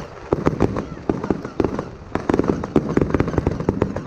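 Fireworks going off in rapid volleys: dense, irregular bangs and cracks, several a second.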